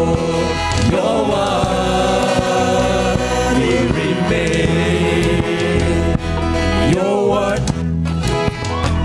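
Gospel song: voices singing long, held notes over a band with a steady bass line.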